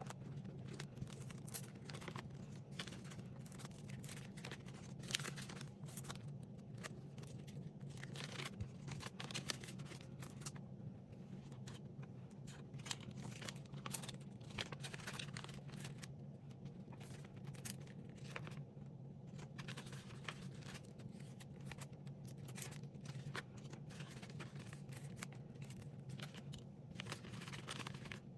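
Paper banknotes and envelopes being handled for cash stuffing: irregular rustling and crinkling of paper, over a steady low hum.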